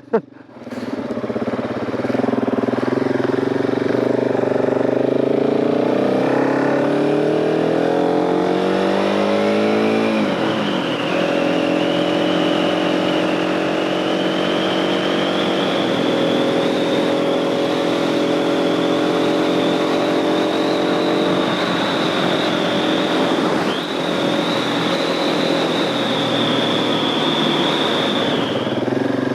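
Husqvarna 701 single-cylinder dual-sport motorcycle engine pulling away, revs climbing for several seconds, then dropping at a gear change about ten seconds in. It then runs at a steady cruising speed with a high steady whine over it.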